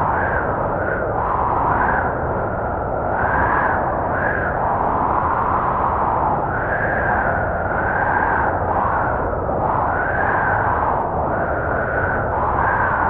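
Snowstorm wind blowing steadily, with a whistling howl that rises and falls in pitch every second or two over a rushing roar.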